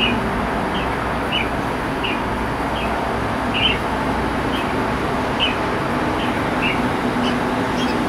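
A bird giving short, high chirps, repeated about one and a half times a second, over a steady background hum.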